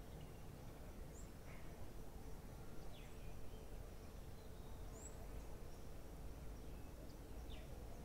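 Faint garden ambience: a steady low background hum with a few short, faint bird chirps scattered through, each a brief high note.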